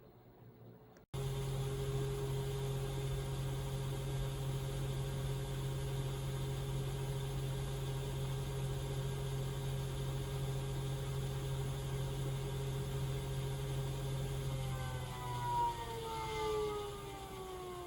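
Panasonic NA-VX9300L drum washing machine running a service-mode test cycle after new drum dampers are fitted: a steady motor hum and whir, with no knocking. About fifteen seconds in, the pitch starts falling as the drum slows down.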